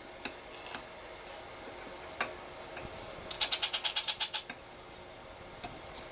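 A few single sharp clicks, then about a second of rapid, even clicking at roughly ten a second from a hand-fed baby blue-fronted Amazon parrot chick feeding on formula.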